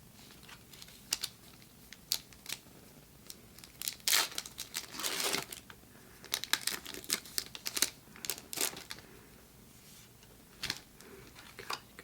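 Foil Pokémon booster pack wrapper crinkling and being torn open, with scattered sharp crackles. The loudest part is a long tear about four to five seconds in, followed by more crinkling.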